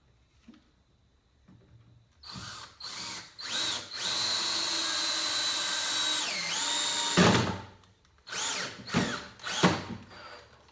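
Power drill driving a screw into wood. It starts with a few short trigger bursts, then runs steadily for about three seconds, its pitch dropping as the screw draws down under load. It stops sharply, then gives several more short bursts.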